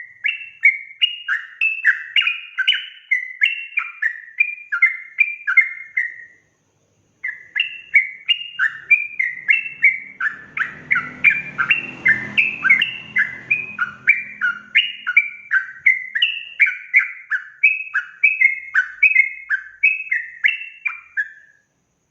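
Yellow-vented bulbul (trucukan) singing a long, fast run of bubbling, chattering notes that leap up and down in pitch. The song breaks off for about a second some six seconds in, then resumes in a longer run that stops shortly before the end. A faint low rumble sits under the middle of the second run.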